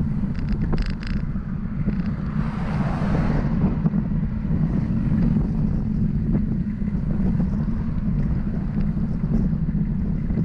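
Wind buffeting the microphone of a camera on a moving bicycle, a steady low rumble. A vehicle passes about two to four seconds in, its tyre and road hiss swelling and fading.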